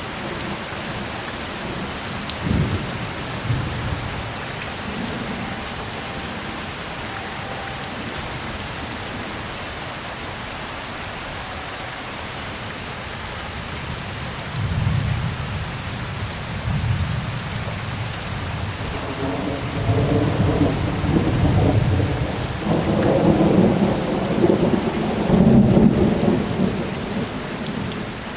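Thunderstorm: rain falling steadily, with thunder rumbling over it. A short rumble comes a few seconds in, then longer rolls of thunder build through the second half, loudest near the end.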